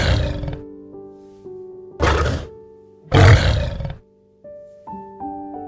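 Lion roaring: three short, rough calls, one at the start, one about two seconds in, and the longest and loudest just after three seconds in. Soft piano music plays under them.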